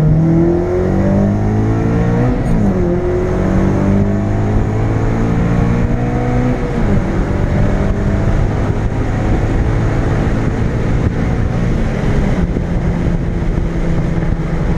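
Honda Civic Si four-cylinder engine through an aftermarket Invidia Q300 exhaust, accelerating hard: the revs climb, drop at an upshift about two seconds in, climb again and drop at a second upshift near the middle, then settle to a steadier drone.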